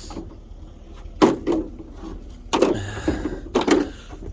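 Three knocks, about a second apart, as heavy scrap lead is moved and set down.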